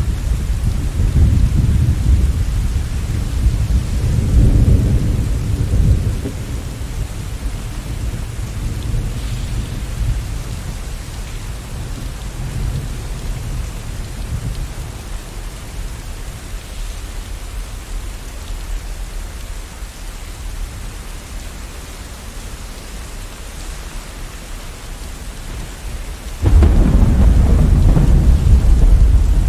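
Steady rain with rolling thunder: a long deep rumble fades out about six seconds in, the rain carries on alone, and a sudden loud thunderclap rumbles in near the end.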